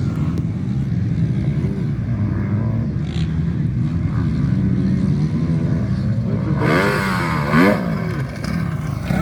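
MX1 motocross motorcycles racing, their engines running in a steady drone. About seven seconds in, one engine revs up and down sharply and briefly.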